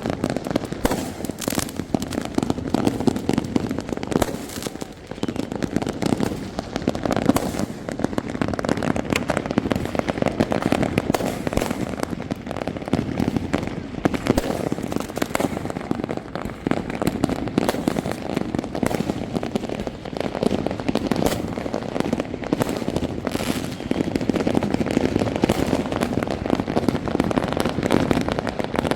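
Many fireworks going off at once: a dense, continuous barrage of overlapping bangs and crackles that never lets up.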